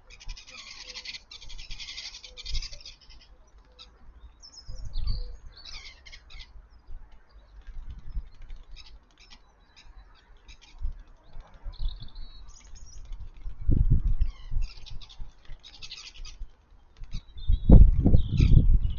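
Small garden birds chirping and chattering, with a dense burst of rapid chatter at the start and scattered short chirps after. Low thumps come about two-thirds of the way through and again near the end, which are the loudest sounds.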